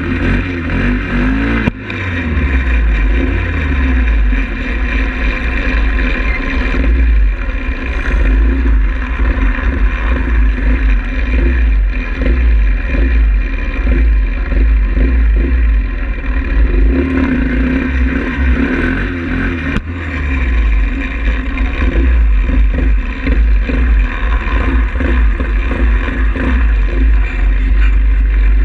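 Pit bike engine running as it is ridden, the revs rising and falling, over a heavy, uneven low rumble.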